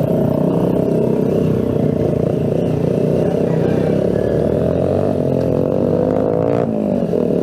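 Keeway Cafe Racer 152's single-cylinder engine running under way through a noisy exhaust. Its pitch climbs steadily for a couple of seconds, then drops sharply near the end as it shifts up a gear.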